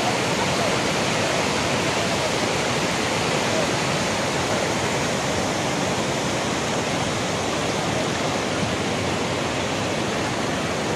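Steady rush of floodwater pouring and flowing after heavy overnight rain.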